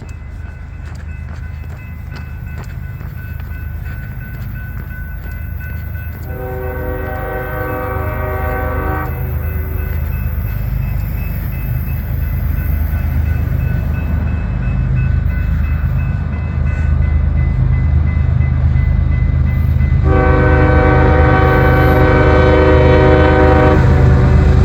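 GE ES44AC-H diesel locomotive approaching, its engine rumble growing steadily louder, sounding its Nathan K5HL five-chime horn twice for a grade crossing: one blast of about three seconds some six seconds in, and a longer one of about four seconds near the end.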